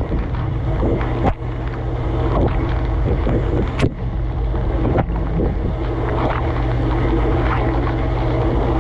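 Dishwasher running mid-cycle, heard from inside the tub: a steady hum from the wash pump motor under the rush of water spraying over the dishes, with a few sharp knocks along the way.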